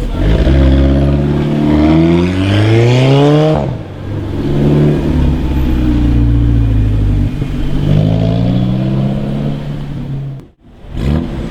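A supercar's engine accelerating hard. The note climbs, drops abruptly about three and a half seconds in, holds steadier, then climbs again, and cuts out briefly near the end.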